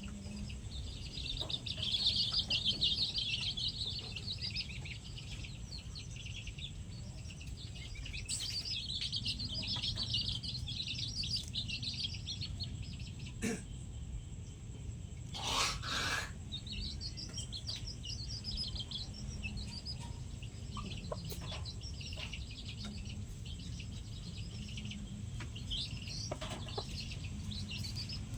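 Birds chirping and twittering in dense bursts, loudest near the start, over a steady low rumble. Two short knocks come in the middle.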